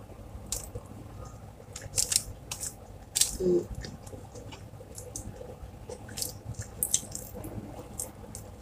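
Close-up mouth sounds of a person chewing rice and fried fish eaten by hand: irregular wet smacks and clicks. A short hummed vocal sound comes about three and a half seconds in.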